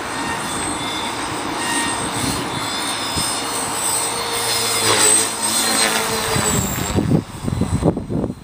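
Align T-Rex 450 Pro electric RC helicopter in flight: a steady high whine from its motor and rotor head, shifting slightly in pitch. Near the end the whine fades and wind buffets the microphone in gusts.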